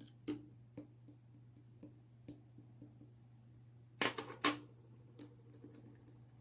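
Clear slime being pressed and pulled, giving scattered sharp sticky clicks and pops, with a louder quick cluster of pops about four seconds in.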